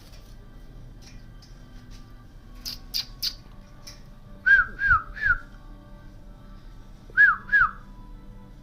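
Alexandrine parakeet (Kashmiri raw parrot) whistling short notes that rise and then fall, three in quick succession and then two more near the end, after three sharp clicks.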